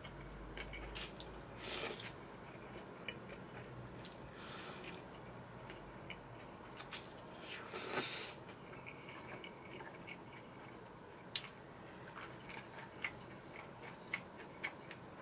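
Quiet close-up eating sounds of chewy jjolmyeon noodles: chewing with a few short wet slurps, and a scatter of small clicks in the last few seconds.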